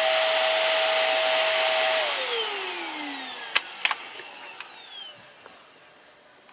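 Hoover PowerDrive Pet bagless upright vacuum running steadily, then switched off about two seconds in, its motor whine falling in pitch as it spins down. A few sharp clicks follow as it winds down.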